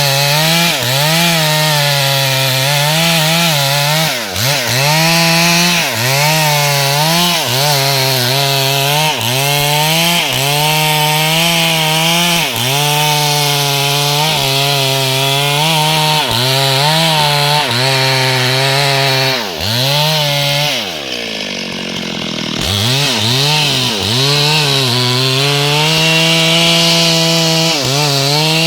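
Two-stroke chainsaw running at high revs while cutting wood. The engine note sags and recovers about every second as the chain bites into the log. About three-quarters of the way through, the throttle eases off and the pitch falls briefly, then the saw revs back up.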